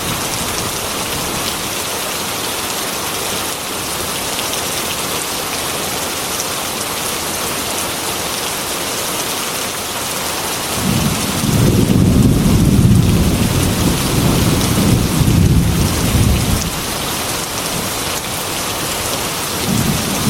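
Heavy rain falling steadily on a metal roof, with a low rumble of thunder that rolls in about eleven seconds in, lasts around six seconds, and starts again just before the end.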